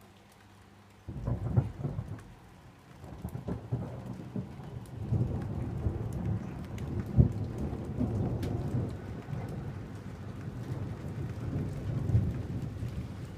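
Thunder rumbling with rain falling, coming in suddenly about a second in and rolling on unevenly with several louder swells.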